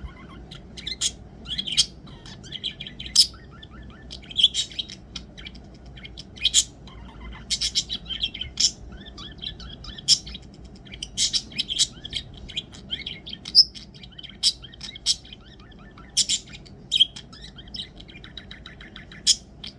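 Budgerigar chirping and warbling: a steady run of short, sharp chirps and chattering notes, with louder single chirps every second or so, the contented chatter of a relaxed budgie.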